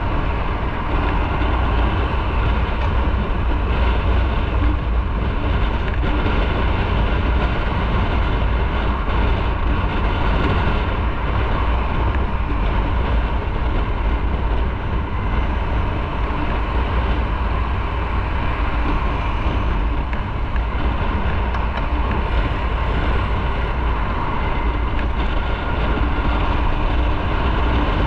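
Riding a motorcycle at steady speed: strong, even wind rush on the microphone with the engine and tyre noise running underneath.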